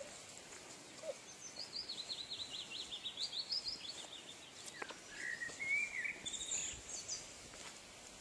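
A songbird singing from the trees: a rapid high trill starting about a second and a half in, followed by several warbled, rising whistled phrases, over a steady outdoor background hiss.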